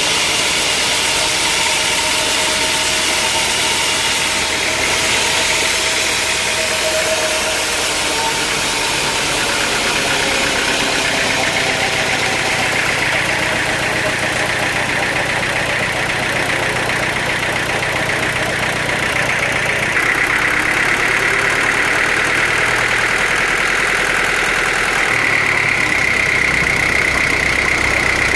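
Sawmill machinery running steadily with an engine note, with a high whine that grows stronger in the second half.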